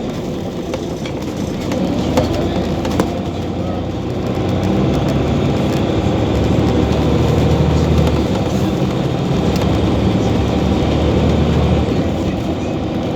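Scania OmniCity city bus's diesel engine running as the bus drives. It grows louder from about four seconds in for several seconds as the engine pulls harder, then eases off near the end. Two sharp clicks come about two and three seconds in.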